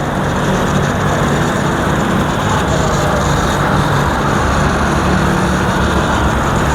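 Btali BT 1000 electric pressure washer running steadily under load, its motor humming under the constant hiss of the water jet as the gun sprays with the foam can fitted.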